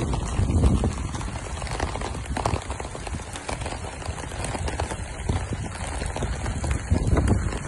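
Rain and shallow floodwater on a wet street: a steady wash with scattered patter, over a low, fluctuating rumble of wind on the phone's microphone.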